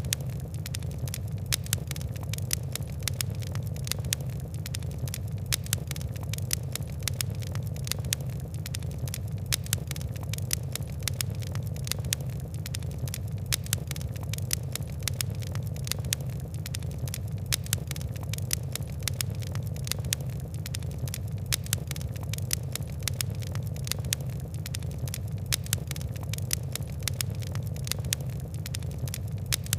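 Wood and coal fire crackling: dense, irregular sharp ticks and pops over a steady low rumble of the flames.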